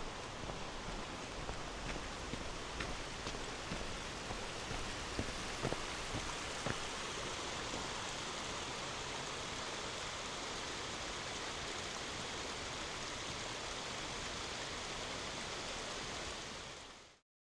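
Oirase Stream's water rushing over rocks in a steady rush, with a few small splashes or clicks in the first several seconds; it fades out quickly near the end.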